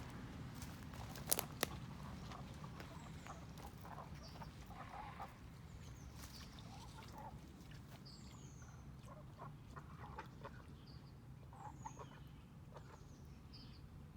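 Faint clucking and calls from poultry, with short high chirps scattered through. Two sharp clicks come close together about a second and a half in.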